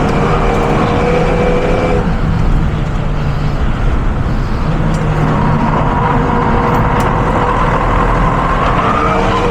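Renault Mégane RS engine pulling under load along with road and wind noise. Its pitch climbs, breaks off about two seconds in, and rises again from about five seconds in.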